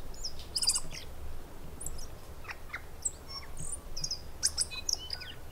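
Several birds calling at once: a busy chorus of short chirps and whistles, some sliding up or down in pitch.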